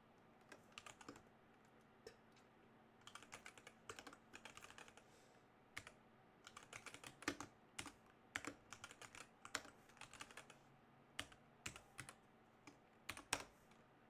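Computer keyboard typing in irregular bursts of keystrokes, with pauses between runs and a few sharper key strikes.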